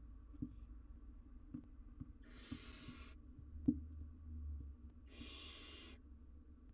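Barn owl owlet hissing twice, each hiss a rough, drawn-out rasp of just under a second: the owlets' food-begging hiss. Short light knocks in between, the loudest about three and a half seconds in.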